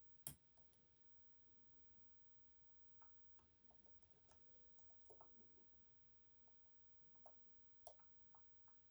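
Faint, scattered clicks of a lock pick and tension wrench working the sliders inside an EVVA 3KS high-security lock, with one sharper click near the start.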